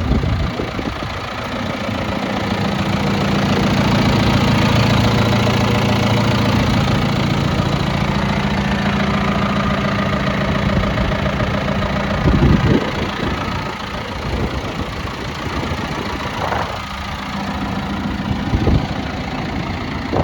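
2014 John Deere 6115M tractor's diesel engine idling steadily, with a few brief thumps in the second half.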